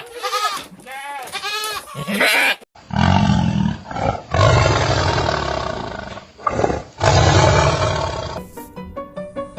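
Goat bleating in quick wavering calls, then a large animal roaring three times in long, rough roars. Music begins near the end.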